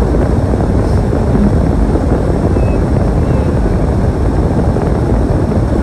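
Storm wind blowing hard across the microphone, a steady deep rumble with no letup.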